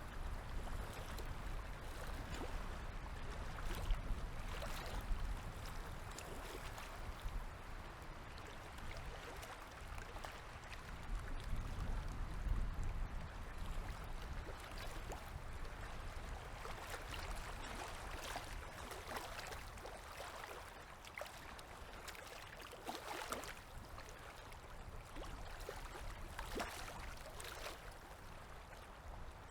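Small river waves lapping and splashing at the water's edge: a steady wash of moving water broken by many irregular little splashes, over a low rumble.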